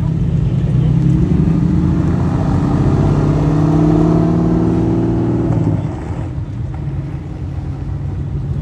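A car engine running loud, its pitch climbing slowly for about five seconds as it gathers revs, then dropping off about six seconds in.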